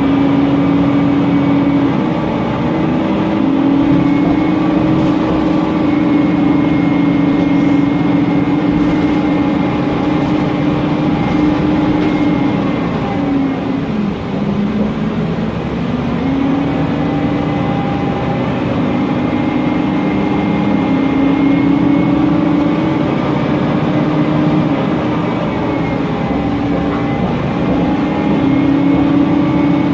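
Mercedes-Benz Conecto NGT city bus running, with the hum of its M936G natural-gas engine and cooling fan and a faint high whistle from its Voith DIWA automatic gearbox. The hum dips in pitch about halfway through, as the bus slows, and climbs again as it pulls away.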